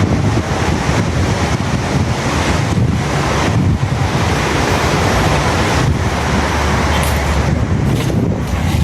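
Strong wind buffeting the microphone: a loud, rumbling rush that swells and dips, over a steady outdoor roar.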